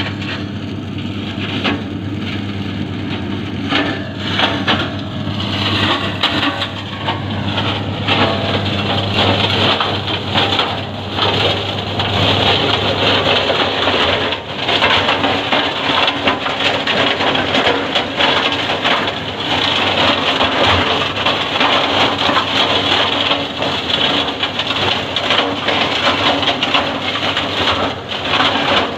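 Tractor-driven branch shredder crunching and cracking wood as branches are fed in, over the steady drone of the John Deere tractor's engine. The crackling grows denser after about a dozen seconds, while the engine tone becomes less prominent.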